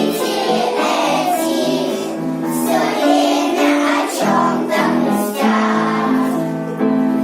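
Children singing a song to musical accompaniment, the melody moving from note to note without a break.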